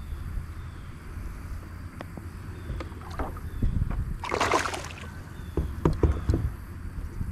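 Water splashing and sloshing against a kayak, with a louder splash about four seconds in and a few light knocks on the hull, over a steady low rumble.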